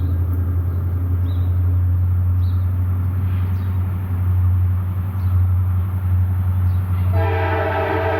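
CSX diesel locomotives running light with a steady low engine drone. About seven seconds in, a locomotive air horn starts sounding a held chord of several notes.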